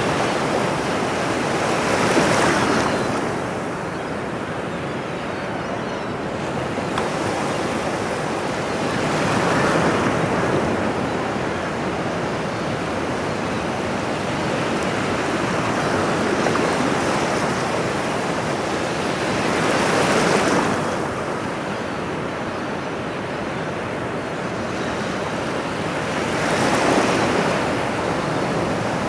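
Ocean surf: a steady rushing wash of water with a wave breaking and swelling louder about four times, every several seconds.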